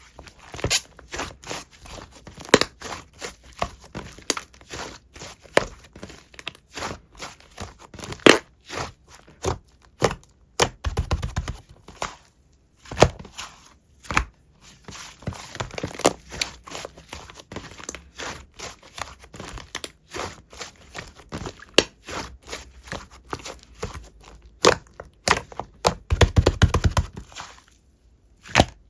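Slime being squeezed, pressed and pulled by hand, giving a steady stream of sticky clicks, pops and crackles, with a few heavier low squishes along the way.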